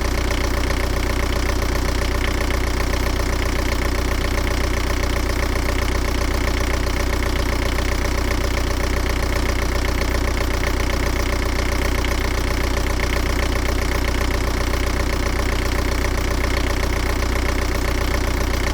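Steady mechanical drone with a strong deep hum and a fast, even pulse, holding constant with no change.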